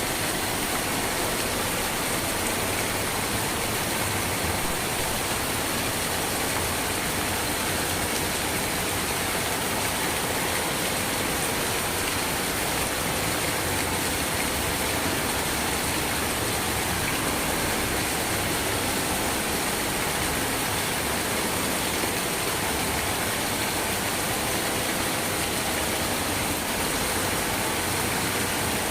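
Steady, continuous rain with an even hiss and no separate drops or pauses.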